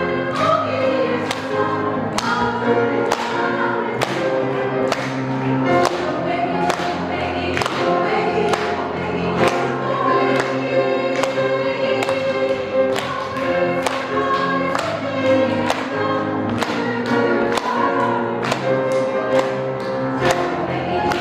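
Women's vocal ensemble singing a lively song in several parts over accompaniment with a steady beat.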